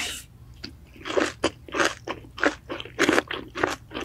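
Close-miked chewing of crispy fried chicken, a run of loud crunches starting about a second in, roughly two a second.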